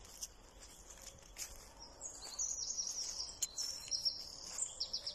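A songbird singing a run of high, quick trilled phrases from about two seconds in, with faint scattered clicks and rustles of footsteps in undergrowth.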